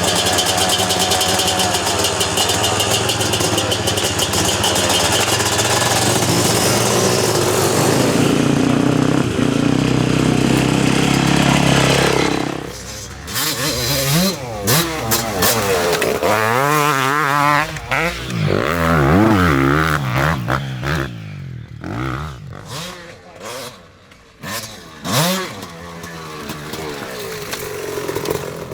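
Enduro dirt bike engine held at high revs for about twelve seconds, then revving up and down in rising and falling sweeps as the throttle is worked and gears change, breaking into shorter bursts near the end.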